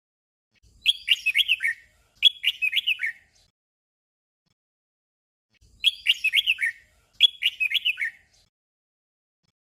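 Red-whiskered bulbul singing a short whistled phrase twice in quick succession, the doubled song that keepers call 'double'. The same pair of phrases comes again after a pause of about two seconds.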